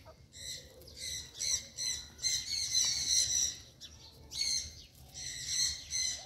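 Small birds chirping repeatedly in short, high notes.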